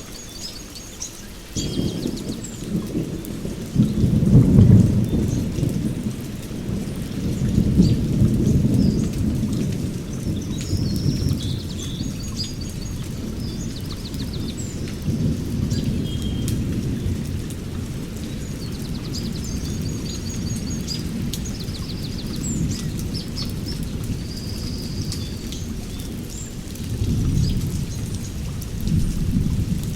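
Thunder rolling in a long low rumble that sets in a second or two in, swells twice in the first ten seconds and again near the end. Rain falls steadily, and small birds chirp in short high calls throughout.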